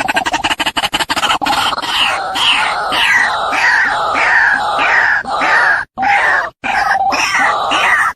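Female white-breasted waterhen calling: a rapid stuttering run of notes gives way to repeated 'ruak' calls, about two a second, with short breaks between phrases near the end.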